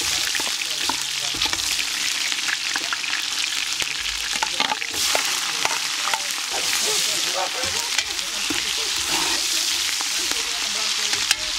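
Hot oil sizzling and crackling in a large aluminium pot as sliced red onion and then julienned ginger go in, the frying swelling louder after each addition. A spatula stirs and scrapes in the pot near the end.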